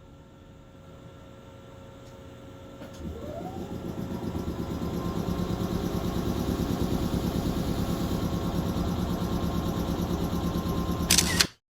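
Electric train running: from about three seconds in a rising whine and loud, rhythmic running noise build up and hold steady, with a sharp burst just before the sound cuts off abruptly.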